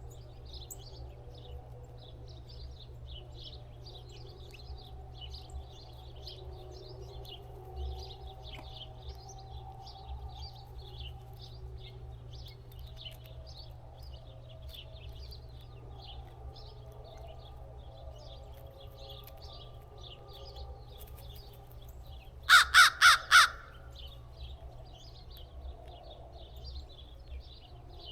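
A crow cawing four times in quick succession, loud, over steady high chirping of small birds throughout.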